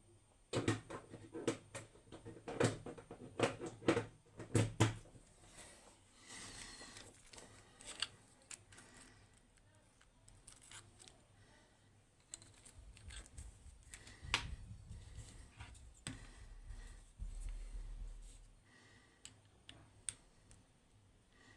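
Handling noises at a workbench: a string of small clicks, taps and knocks, thick in the first five seconds and scattered after, with a brief low rumble near the end. No rotary tool is running yet.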